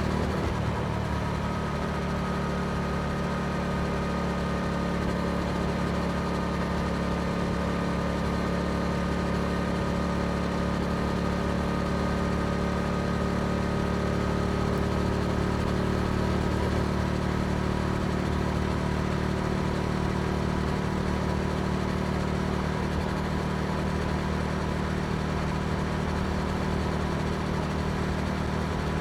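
Yamaha R7's parallel-twin engine through an Akrapovic exhaust, running at steady revs with no clear rises or drops in pitch.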